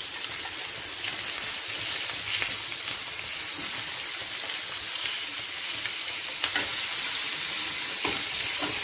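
Chicken pieces sizzling steadily in hot ghee on a grill pan as they fry to golden brown, with a couple of light clicks in the second half.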